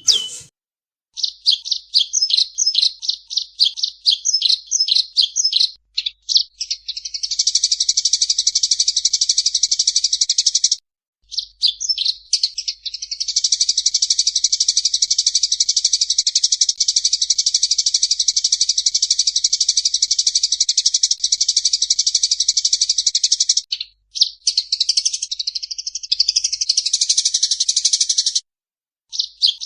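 Songbird song from a bird-training recording: first a quick series of high, repeated notes, then long unbroken high trills, one of about four seconds and one of about ten, and a stretch of varied twittering near the end.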